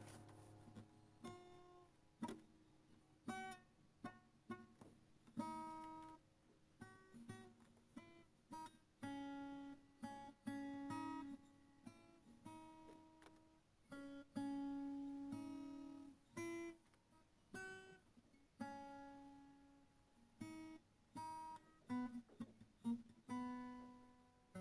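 Faint acoustic guitar music, single plucked notes and small chords that ring and fade one after another.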